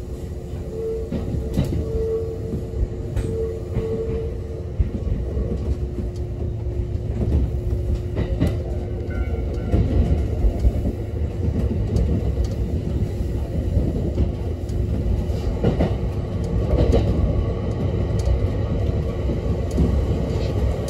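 Kintetsu electric train running along the track, heard from inside the front of the car: a steady rumble with the clicks of the wheels over rail joints. It builds over the first several seconds as the train gathers speed.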